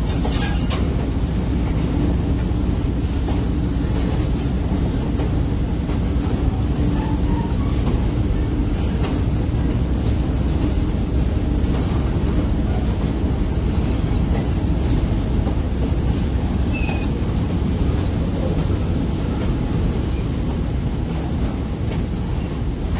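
A New Hope & Ivyland Railroad train running along the track: a steady low rumble with occasional faint clicks from the wheels and rails.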